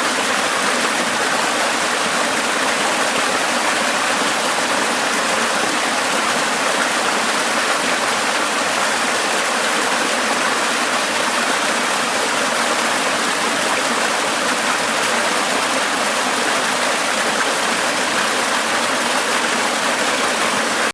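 Steady rush of flowing water, an even hiss that neither rises nor falls.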